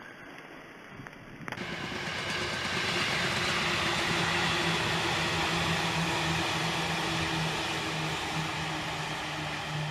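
Electric commuter train passing. The sound starts abruptly about a second and a half in, builds to a steady rushing noise that is loudest around the middle, and has a steady low hum underneath.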